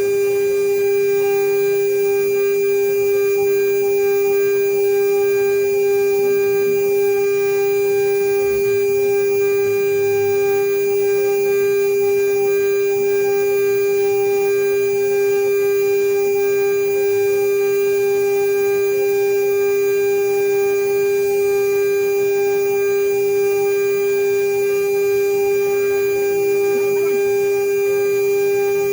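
CNC router spindle running at a constant speed: a loud, steady high whine that holds one pitch throughout, with faint cutting noise beneath.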